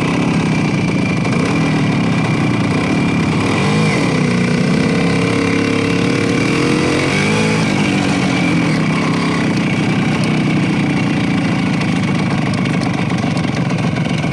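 Motorcycle engine running steadily, with a second engine note that rises and dips between about four and seven seconds in.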